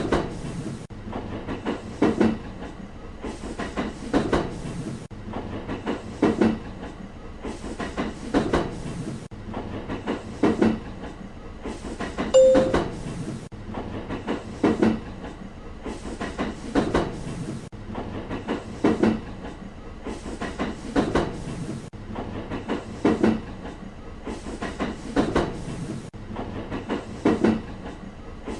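Train wheels clattering over rail joints as a long train rolls past at steady speed: a double clack about every two seconds, with a short tone about halfway through.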